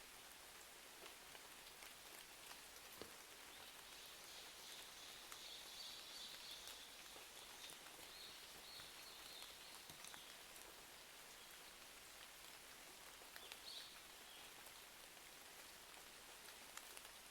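Faint steady rain, with scattered small crackling pops from a wood fire.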